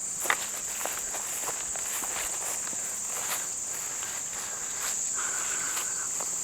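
Footsteps walking through grass and brush, irregular crunching steps, over a steady high-pitched drone of crickets and other insects.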